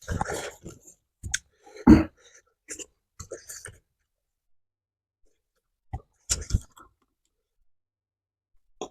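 Close-up eating sounds: a person chewing and crunching food with wet mouth clicks, in a cluster of short bursts over the first few seconds and another brief one about six seconds in.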